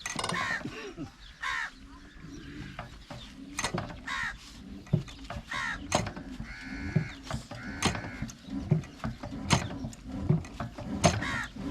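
Irregular mechanical clanks and knocks, with crows cawing in between.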